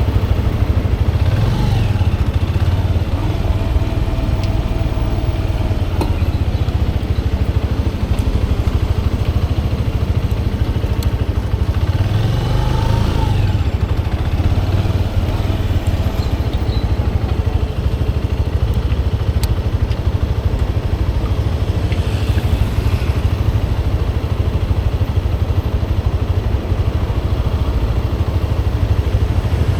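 Motorcycle engine running steadily under way, rising in pitch briefly as it revs up, once about two seconds in and again around the middle.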